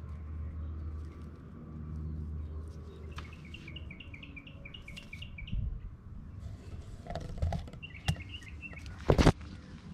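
A small songbird chirping in quick runs of short repeated notes, twice, over a low rumble. A short loud thump comes near the end.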